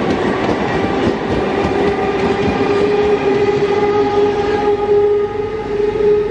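Indian Railways WAP-4 electric locomotive approaching at the head of an express train: rolling wheel rumble on the rails under a steady droning tone, which grows a little stronger about three-quarters of the way through.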